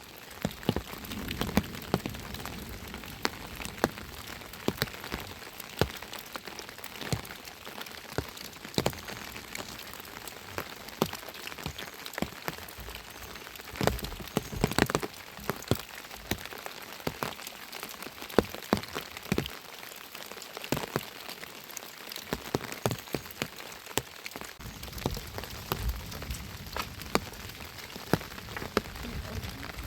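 Rain falling: a steady hiss with many separate sharp drop hits landing at irregular moments.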